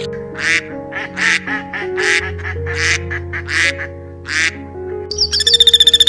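Short raspy animal calls, about six of them a little under a second apart, over soft background music. Near the end a fast, high, pulsing trill sets in.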